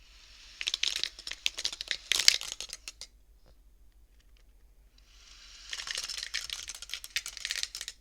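Wooden beads of a bead abacus sliding along their rods and clacking together. The clatter comes in two runs of rapid clicks, one in the first three seconds and another from about five seconds in, with a quiet pause between them.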